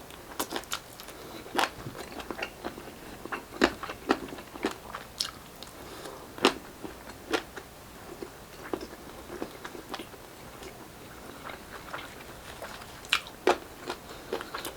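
Close-up eating sounds of grilled Filipino street-food barbecue: a person biting and chewing, with irregular crisp crunches and mouth clicks.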